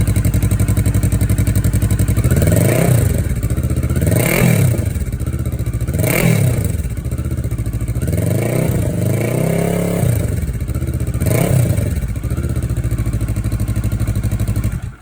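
CFMOTO 650NK parallel-twin motorcycle engine through a Musarri slip-on muffler with the baffle in, idling and then blipped about six times, each rev rising and falling back to idle. The sound cuts off suddenly at the end.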